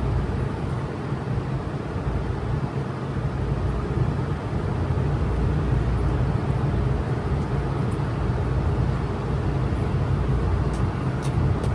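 Steady low hum and rumble of a vehicle running, with a continuous noise over it and no clear change in loudness.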